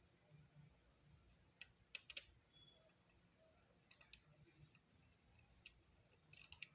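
Faint, scattered light clicks and taps of small hard parts being handled, a quick cluster about two seconds in being the loudest, with a few more later and a quick run near the end.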